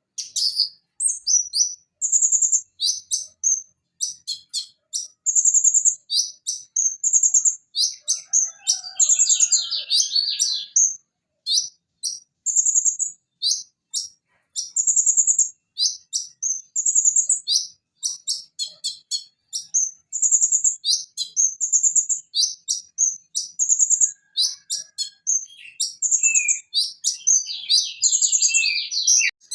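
Van Hasselt's sunbird (konin, Leptocoma sperata) singing a fast, unbroken run of high, sharp chirps and short trills. Denser buzzy rattles come about nine seconds in and again near the end.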